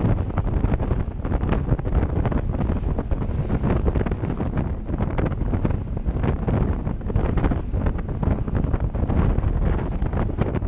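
Heavy wind buffeting the microphone during a boat ride across choppy lake water, with a rapid run of knocks and thuds as the hull slaps the waves.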